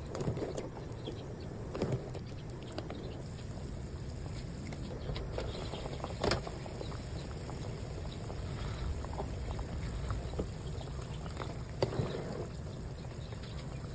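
Pot of palo braise, eggs and pork belly in sweet-spiced broth, bubbling at a simmer, with a few sharp knocks scattered through.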